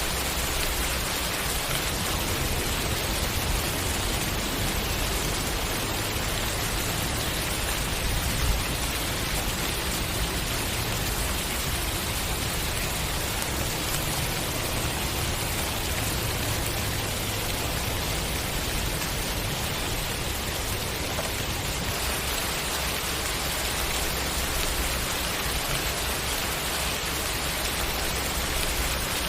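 Steady rain falling, an even hiss of drops with one brief louder spatter about eight seconds in.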